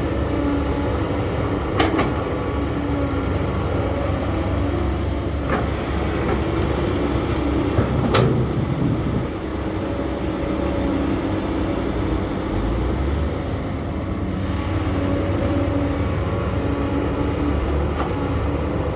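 Heavy diesel earthmoving machinery running steadily. Sharp knocks or clanks come about two seconds in, again near five and a half seconds, and loudest near eight seconds.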